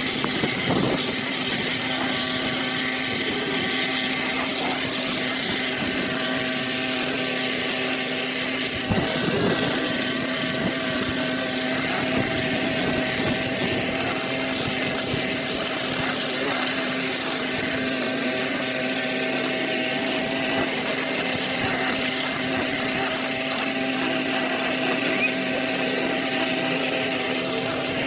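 A small engine-driven power tool running steadily at constant speed.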